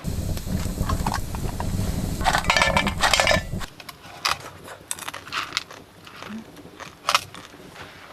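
Automatic popcorn machine running with a steady low hum while popcorn rattles and clinks around inside it. The machine cuts off suddenly about three and a half seconds in, leaving scattered small clicks and rustles.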